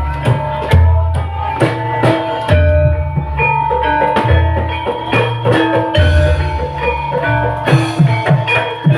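Live gamelan-style music: a fast run of drum strokes over ringing struck metal instruments playing short pitched notes, with long low booming tones underneath.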